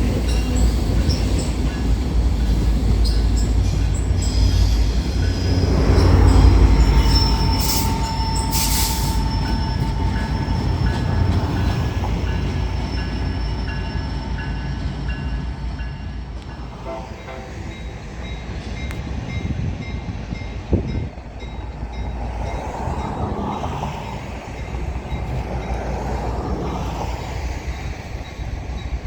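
A train rolling past: a heavy low rumble of engines and wheels on rail that is loudest about six seconds in, then eases, with high squeals from the wheels along the way.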